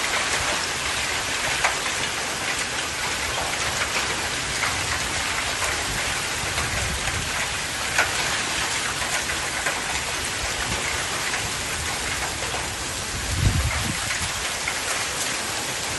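Heavy hailstorm: a dense, steady hiss of rain and ice pellets hitting surfaces, with scattered sharp ticks of single stones striking. A low thump comes about three quarters of the way through.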